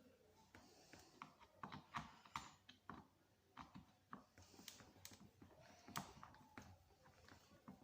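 Faint, irregular clicks and small metal taps from screwdriver work on the screws of a barber chair's headrest while it is being taken apart.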